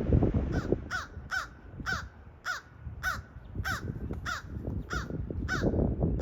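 A bird calling over and over: a steady series of about eleven short, harsh calls, roughly two a second, each falling in pitch. Wind rumbles on the microphone underneath.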